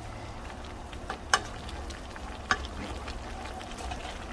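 Orange chicken in a thickening cornstarch sauce sizzling and bubbling in a pan while it is stirred, with two sharp clicks of the utensil against the pan, about a second and two and a half seconds in.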